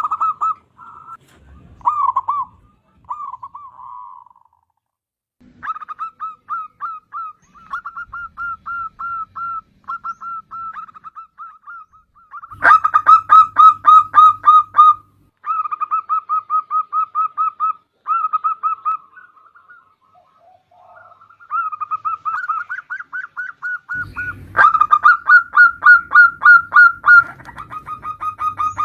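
Zebra dove (perkutut) calling: rapid runs of short cooing notes, several a second, in stretches of a few seconds with brief pauses between them, loudest about halfway through and again near the end.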